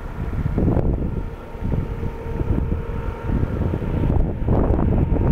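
Wind buffeting the microphone in gusts, over the steady hum of an orchard sprayer's engine running in the distance.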